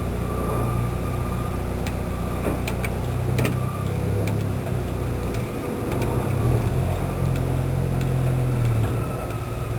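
A motor running steadily with a low hum, with a few light clicks about two to four seconds in.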